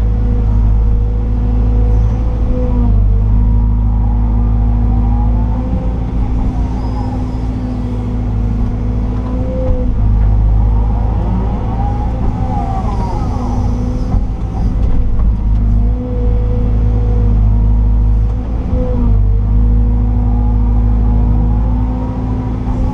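Liebherr R926 excavator's diesel engine running steadily under load, heard from inside the cab, with the hydraulics whining and shifting in pitch in several spells as the machine digs, swings and dumps clay.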